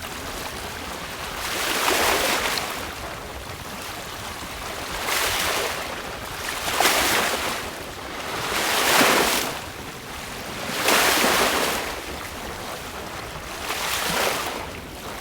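Sea waves splashing against a sailboat's hull as it sails through choppy water, in repeated surges about every two seconds, with wind buffeting the microphone.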